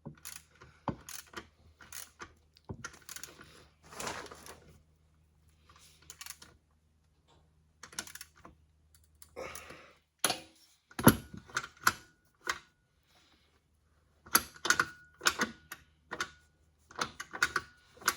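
Scattered metallic clinks, clunks and knocks from metal parts and hand tools being handled, a few with a short metallic ring, the loudest clunk about eleven seconds in. A low steady hum under them stops about ten seconds in.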